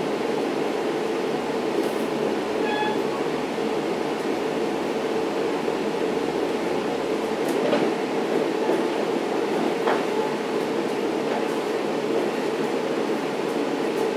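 Diesel-hauled Long Island Rail Road bilevel commuter train running at speed, heard from inside a C3 coach: a steady rumble of wheels and running gear, with a few light knocks from the track and a short high tone about three seconds in.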